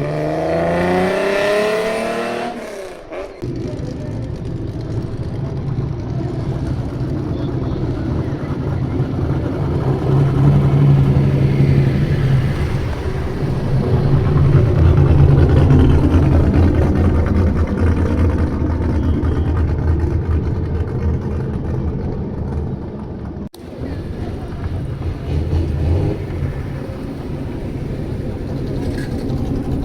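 Loud exhaust of an old Nissan Skyline, revving with a rising pitch for the first few seconds, then running at low revs with a steady, deep sound that grows louder in the middle. A brief sudden dropout about two-thirds of the way through.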